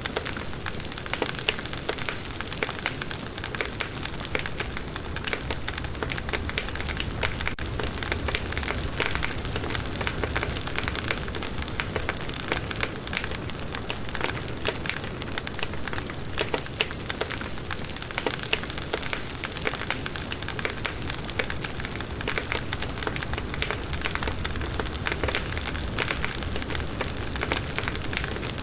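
Firewood burning in a campfire, crackling steadily with a dense run of small pops and snaps.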